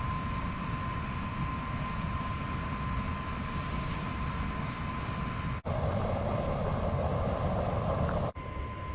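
Steady rushing, rumbling noise with a thin, constant high whine, typical of the small battery-powered blower fan running under a homemade wood stove and fanning the fire. The sound changes abruptly about two-thirds through: the whine stops and a louder hissing rush takes over, until another sharp change near the end brings the whine back.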